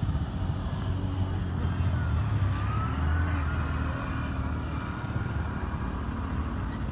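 Motor vehicle engine running steadily close by, a low pulsing rumble, with a faint high wavering call about two seconds in.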